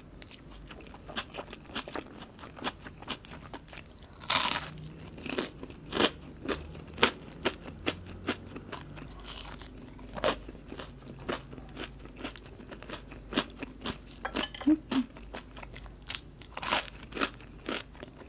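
Close-miked biting and chewing of crispy Tesco breaded fried shrimp. The coating gives sharp crunches at irregular intervals, the loudest about 4, 6, 10 and 17 seconds in, between quieter chewing.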